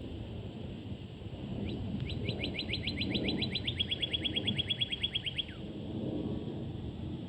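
A songbird singing one rapid trill of short, quickly falling notes, about eight a second for nearly four seconds, that steps slightly lower in pitch about halfway through. Under it runs a steady low rumble.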